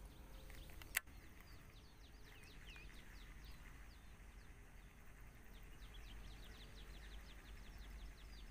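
Faint birdsong: a long run of quick, high chirps, each sweeping downward, over a quiet open-air background. A single sharp click comes about a second in.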